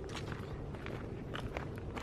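Several footsteps over a low, steady background noise.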